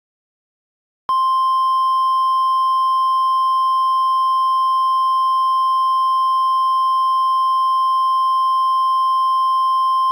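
NOAA Weather Radio warning alarm tone: a single steady high tone of about 1050 Hz that comes on about a second in and holds without change. It is the alert that switches on weather radios ahead of a warning message.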